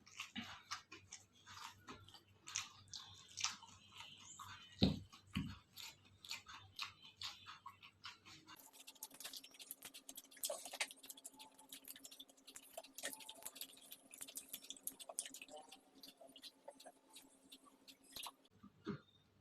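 Close-up chewing and mouth sounds of a person eating, with many small wet clicks and crunches, and one dull thump about five seconds in.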